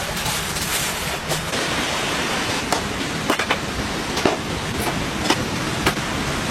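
Steady rain falling hard, a constant hiss with scattered louder drops tapping close by every second or so.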